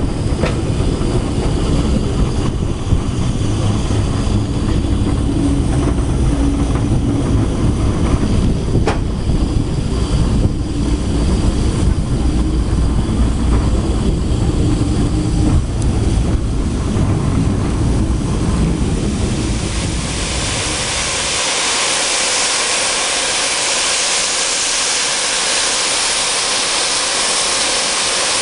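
Steam-hauled train running on the rails, heard from a carriage window as a loud, steady low rumble. About three-quarters of the way through, the rumble drops away and a steady hiss takes over.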